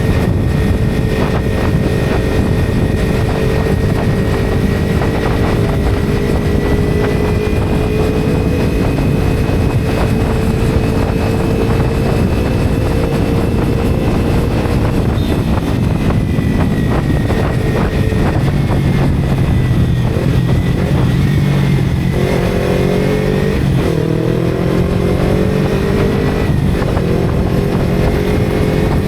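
Motorcycle engine running under way on a ride, with a steady rush of road and wind noise. The engine note shifts in pitch and rises several times in the later part as the revs change.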